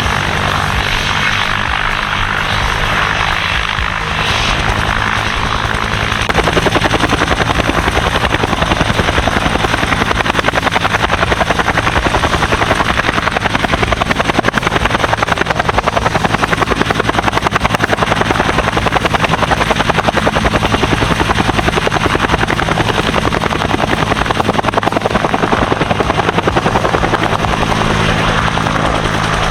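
Helicopter flying close by, its rotor blades making a rapid, even pulsing over the steady turbine sound. The pulsing grows louder about six seconds in.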